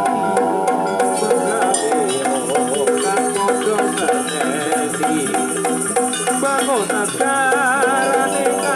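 Javanese jaranan accompaniment music playing continuously: a wavering melody line over steady, rhythmic percussion.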